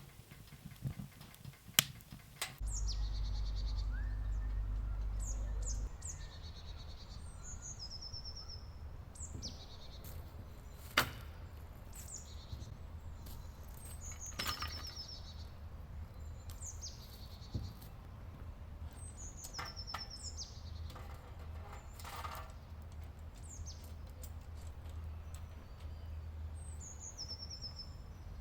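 Small birds chirping in the woods: short high chirps and quick trills, repeating throughout, over a steady low background with a few sharp knocks. A low rumble is heard for a few seconds near the start.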